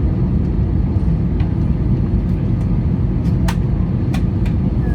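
Steady low rumble of an airliner cabin in flight, with a couple of faint clicks near the end.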